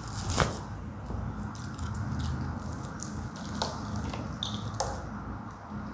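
Eating sounds during a biryani meal: soft squishy handling and chewing of food, with a few sharp clicks and taps of plates or utensils.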